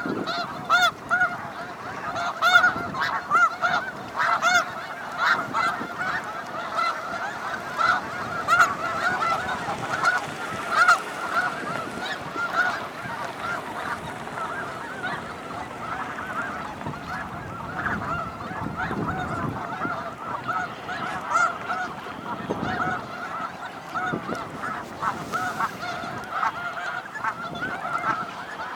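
A large flock of sandhill cranes calling, a continuous chorus of many overlapping rolling calls.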